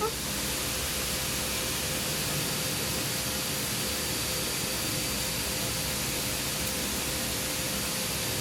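Steady hiss-like machine noise with a faint steady hum and a thin high tone, unchanging throughout.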